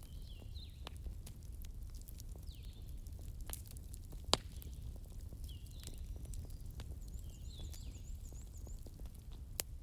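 Wood fire crackling over a steady low rumble, with many small snaps and two sharp loud pops, one about four seconds in and one near the end. High falling chirps repeat every second or two behind it.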